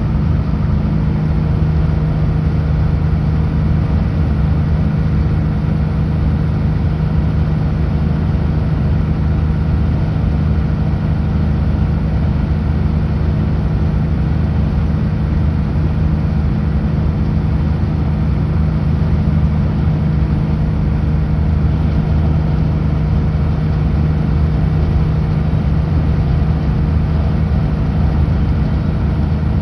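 Kenworth W900L semi truck's diesel engine running steadily while cruising on the highway, a constant low drone mixed with road noise.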